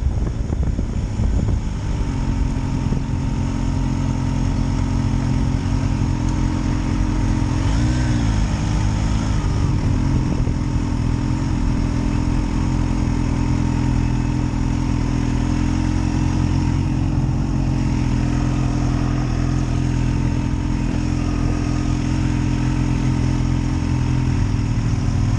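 Kawasaki Ninja H2 SX SE's supercharged inline-four engine running at a steady speed while riding, with a brief rise and fall in revs about eight seconds in.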